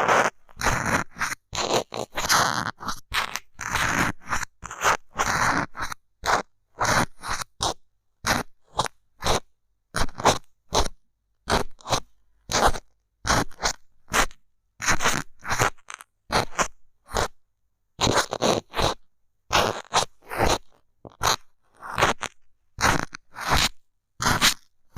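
Bamboo stick scraping and poking against the microphone in short strokes, one or two a second, with silence between.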